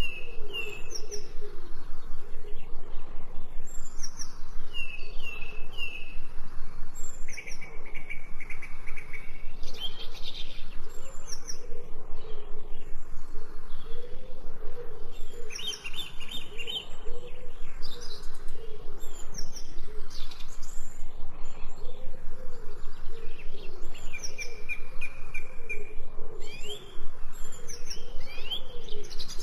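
Several songbirds chirping and singing, with short whistled notes and trills overlapping one another. A low call repeats underneath them throughout.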